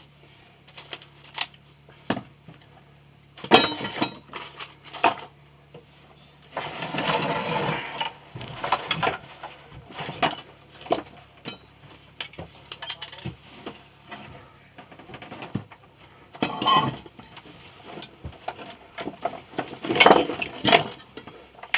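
Intermittent metallic clinks and knocks of small metal pieces and tools being handled, the loudest about three and a half seconds in with a brief ring, and a rushing noise for a couple of seconds around seven seconds in.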